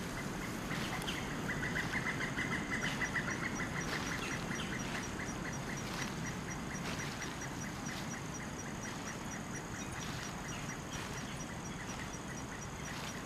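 Woodland ambience: a bird calls in a quick run of short repeated notes between about one and four seconds in. A faint, evenly spaced high pulsing runs on after that.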